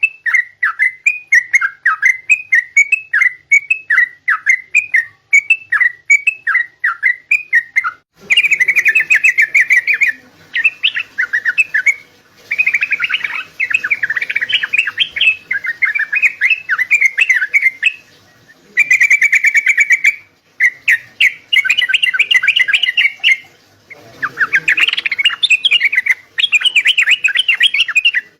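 Yellow-vented bulbul (trucukan) singing loudly. First comes a string of short bubbly whistled phrases, about two a second. From about eight seconds in, it changes to bursts of fast chattering trills a second or more long, with short breaks between them.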